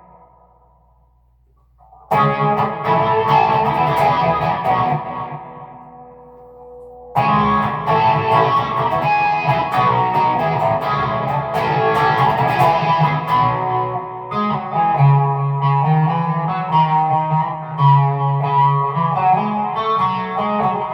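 Electric guitar, a PRS SE Hollowbody II, played through a Peavey Vypyr X2 modeling amp with a Tube Screamer-style overdrive. Two chords are struck about two and seven seconds in and left to ring out. From about fourteen seconds a run of picked notes plays over low bass notes.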